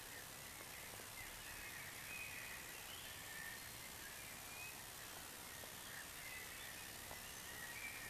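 Faint birdsong: scattered short chirps and whistles from songbirds over a steady hiss.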